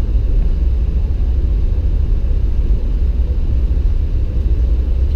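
Steady low rumble of a Jeep driving along a snow-covered road: engine and road noise.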